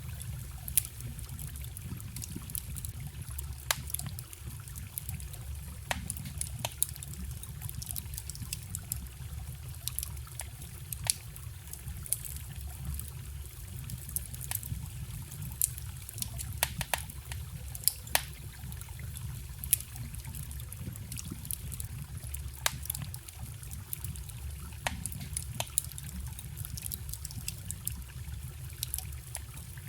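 Wood fire crackling with frequent sharp, irregular pops, over the steady trickle of a small forest stream.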